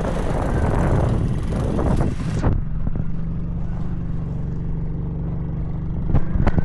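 A loud rushing noise that cuts off suddenly about two and a half seconds in. After the cut, an engine runs steadily at a low pitch, with a couple of sharp clicks near the end.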